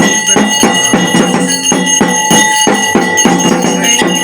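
Ritual drumming with a ringing bell: drum strokes at about three a second over a steady metallic ringing.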